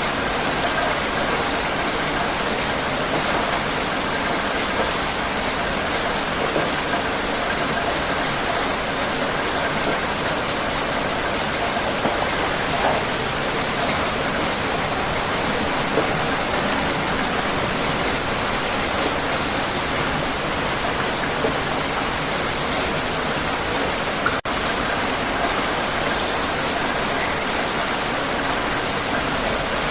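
Heavy rain falling steadily, a dense, even hiss of drops, with a split-second dropout about three-quarters of the way through.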